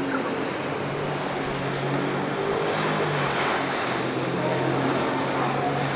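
A motorboat engine running steadily, a low hum under a steady rush of water noise.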